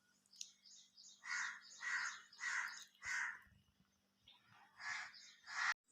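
A crow cawing: four caws in steady succession, then two more near the end.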